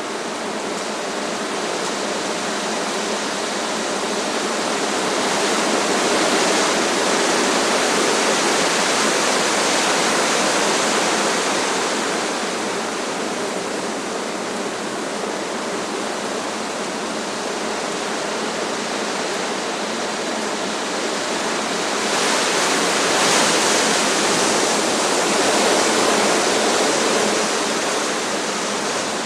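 Strong wind rushing through trees, a steady rushing noise that swells into two louder gusts, one a few seconds in and another a little past two-thirds of the way through.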